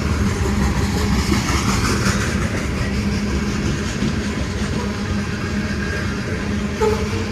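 Train with diesel-electric locomotives running, a steady low rumble with an even hum underneath.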